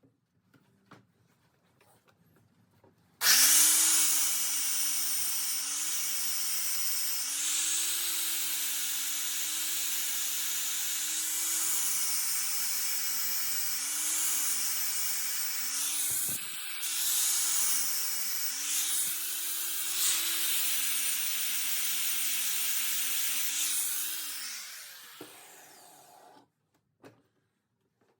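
Angle grinder with a grinding disc switched on about three seconds in and grinding coil-spring steel. Its motor pitch dips and recovers again and again as the disc is pressed into the blade and eased off. Near the end it is switched off and winds down.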